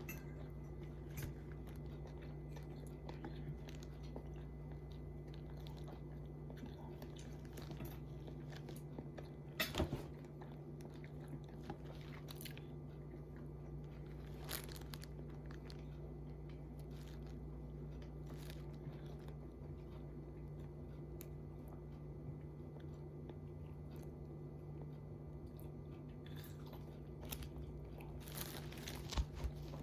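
Someone eating fried chicken: faint crunching and chewing with scattered small clicks, over a steady low hum. A slightly louder clatter comes about ten seconds in and again near the end.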